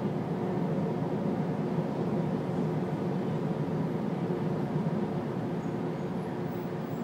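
Steady hum of a stopped CTA 'L' railcar's onboard equipment, heard inside the car, with a few steady tones running through it while the train stands waiting for signal clearance.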